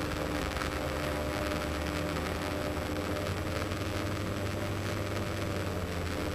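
Diamond DA42 NG's Austro AE300 turbo-diesel engines running steadily at run-up power during the pre-takeoff ECU test, an even drone.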